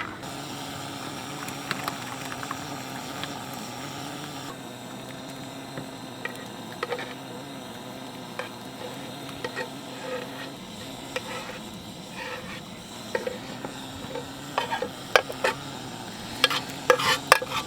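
A pot of menudo simmering and sizzling over a campfire, a steady hiss, with scattered clinks and scrapes of a spoon against the pot and bowls that come more often near the end.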